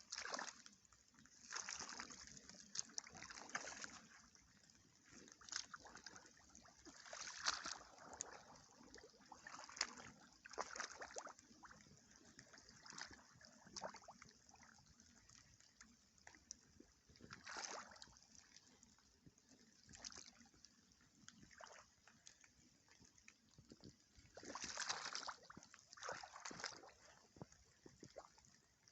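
Rubber boots splashing and sloshing through wet ground or puddles, in slow, irregular steps a second or more apart.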